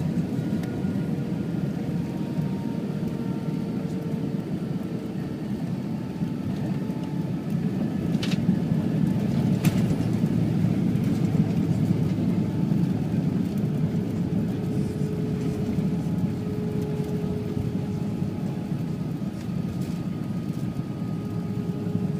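Steady low rumble of an airliner cabin on the ground after landing: jet engines and wheels running on the runway or taxiway, with faint steady engine tones and two brief clicks about eight and ten seconds in.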